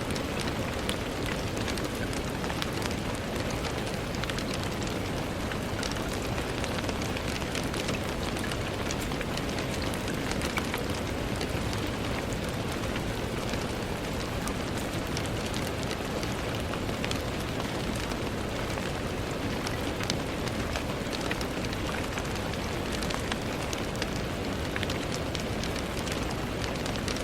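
Steady rain falling on a window pane: an even hiss with many small, sharp drop ticks scattered through it.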